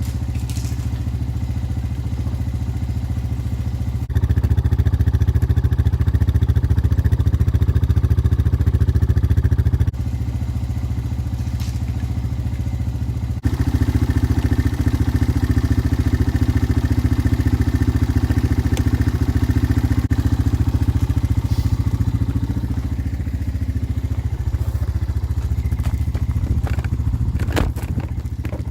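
A motor-driven machine running steadily, stepping up louder from about four to ten seconds in and again from about thirteen to twenty-two seconds in.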